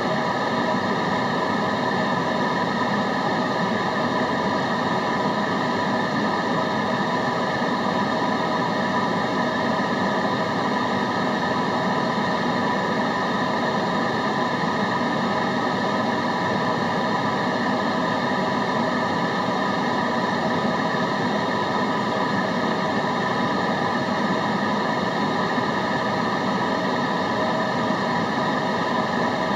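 Steady white-noise track for concentration: an unchanging hiss with a low rumble beneath and a few faint constant tones running through it.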